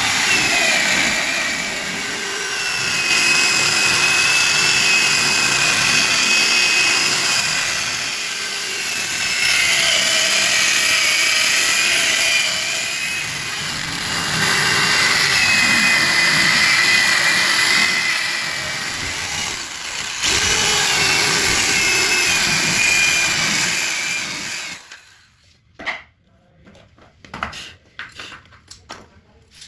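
Electric power tool running under load on wood, its whine rising and easing in about four long passes, then switched off about 25 seconds in. A few short knocks and clicks follow.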